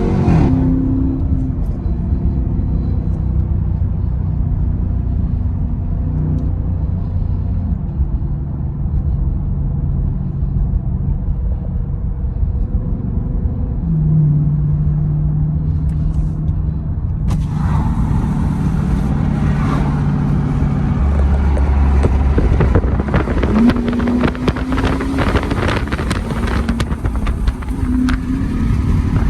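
The exhaust of a 2017 Dodge Durango R/T's 5.7-litre Hemi V8, running through an added X-pipe with the rear muffler deleted, drones steadily under way. About two-thirds of the way through, a steady hiss of wind or road noise suddenly joins it.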